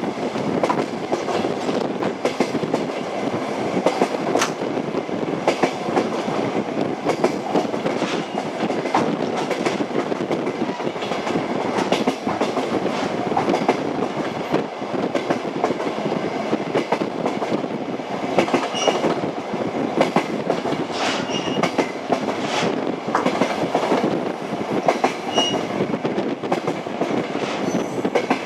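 Train wheels clattering over the rails: a steady rumble with frequent irregular knocks from the wheels on the track, and a few faint brief squeaks in the second half.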